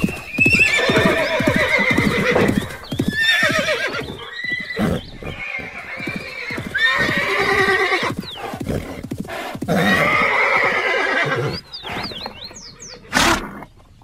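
Horses whinnying, a series of loud, quavering neighs one after another, with hooves clopping between the calls. The calls die away near the end, where there is a sharp knock.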